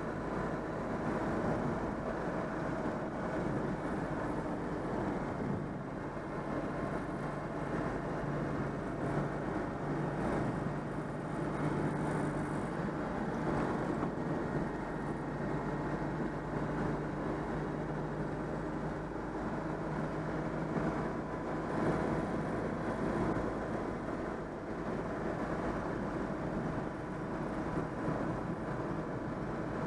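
Citroën 2CV AZLP's small air-cooled flat-twin engine running under way at a steady pitch, with road noise, freshly rebuilt and running smoothly.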